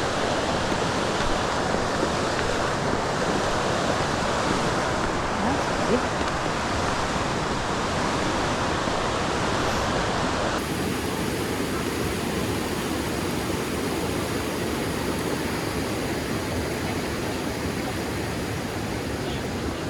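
Steady rushing of water from a fast mountain stream or waterfall. About halfway through the sound changes abruptly and turns duller.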